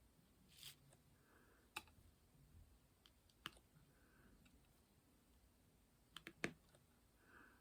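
Faint, sparse small clicks and taps, typical of diamond-painting work: a drill pen and resin drills tapping on the canvas and tray. They come a second or two apart, with a quick run of three, the loudest, about six seconds in.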